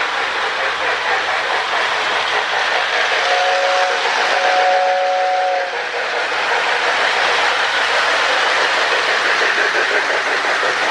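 O-gauge toy trains running on three-rail track with a steady motor and wheel rush. Near the middle, a Lionel air whistle in a baggage car gives two blasts of about a second each, two notes sounding together.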